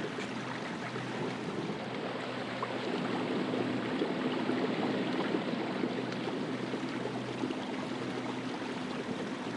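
Water rushing and splashing around a fishing kayak's hull, with a steady low electric hum from its Minn Kota trolling motor running.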